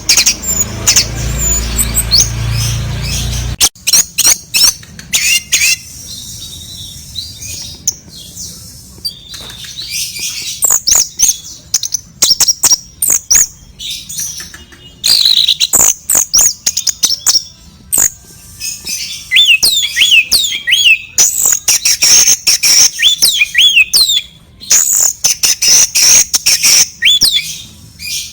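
Sooty-headed bulbul (kutilang) chirping and calling over and over in short gliding notes, getting busier and louder past the middle, among many sharp clicks. A low rumble runs under the first few seconds and cuts off suddenly.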